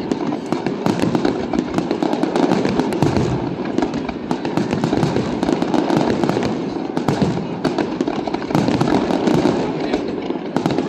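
Fireworks display: a dense, unbroken run of rapid bangs and crackles, many per second.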